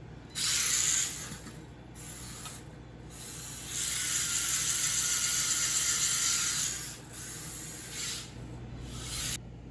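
WLtoys 1/28 hoon truck RC car's small electric motor and gear drive whirring in throttle bursts: several short bursts and one long run of about three seconds, cutting off suddenly near the end.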